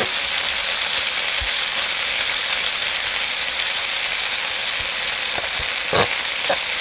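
Leatherjacket fillets and a cherry-tomato sauce sizzling steadily in a frying pan, with a couple of light knocks of metal tongs against the pan near the end as the fish is turned.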